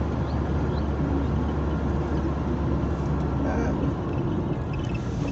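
A car driving along a road, its engine and tyre noise heard as a steady low hum from inside the cabin.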